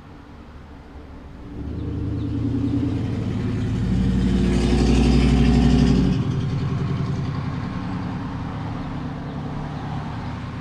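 A motor vehicle's engine running close by, growing louder about a second and a half in, loudest for a couple of seconds, then dropping back suddenly and running on more quietly.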